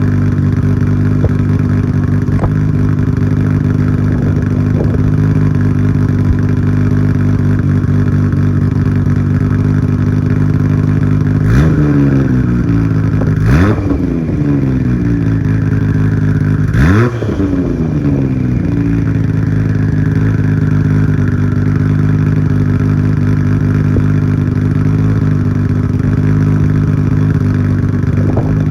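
Nissan Skyline GT-R R34's RB26 twin-turbo straight-six, with high-lift cams and N1 turbos, idling steadily through a Tomei Expreme Ti titanium exhaust with its silencer insert fitted. The engine is blipped three times, short revs that rise and fall back to idle, in the middle of the clip.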